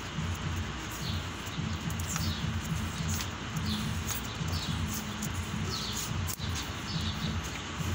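Birds chirping, short falling chirps repeated every second or so, over a steady low rumble.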